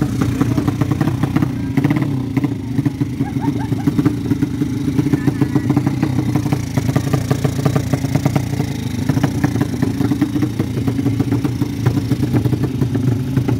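Motorcycle engine running steadily, with rapid even exhaust pulses.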